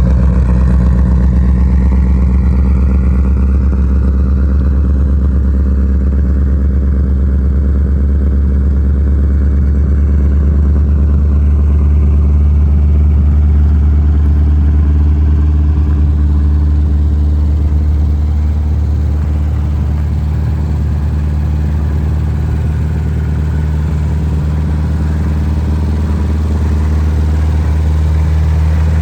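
1974 Triumph Spitfire's four-cylinder engine running steadily at an even, idle-like speed through a Monza sports exhaust, a little quieter from about two-thirds of the way in.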